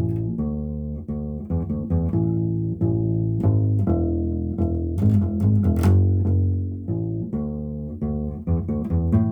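Instrumental music: a plucked string instrument picks a run of low, separate notes.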